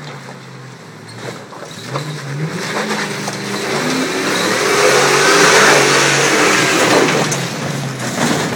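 Off-road vehicle's engine revving hard under load while climbing a rock ledge, rising in pitch and loudest about five to seven seconds in, with scattered knocks and clatter.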